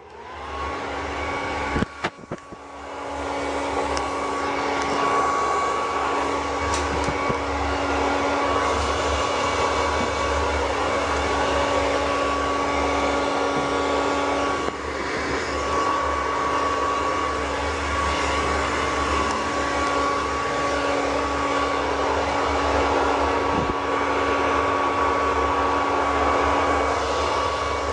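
Handheld hair dryer switched on and running steadily: a rush of air with a steady whine. It comes on about half a second in and builds over the first few seconds, with a couple of sharp knocks about two seconds in.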